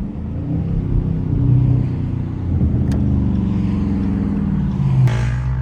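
Straight-piped Dodge Scat Pack's 6.4-litre HEMI V8 exhaust rumbling at low speed, its pitch rising and falling with the throttle, with a short louder blip about five seconds in.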